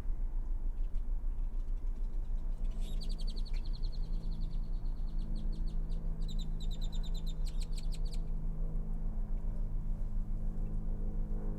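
A bird gives two runs of rapid, buzzy, evenly pulsed chattering calls between about three and eight seconds in. Under it runs a steady low rumble of traffic, with a low engine hum growing in the second half.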